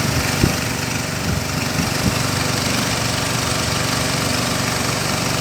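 Small boat engine running steadily at idle, with two short knocks, about half a second and two seconds in.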